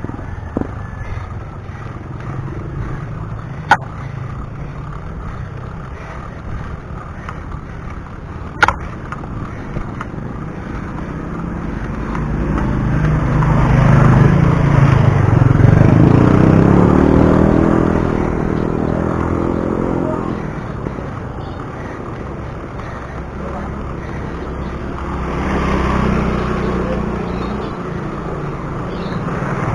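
Steady wind and road rumble on a chest-mounted action camera while cycling. About halfway through, a motor vehicle passes close, its engine note swelling and then fading, and a fainter vehicle passes near the end; two sharp clicks come in the first nine seconds.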